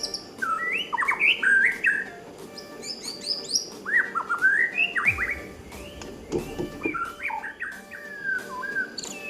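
White-rumped shama (murai batu) singing: a series of quick, varied whistled phrases that rise and fall, coming in bouts with short pauses between them.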